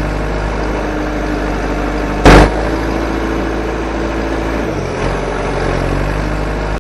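A motor running steadily with a low hum, with one loud thump about two seconds in.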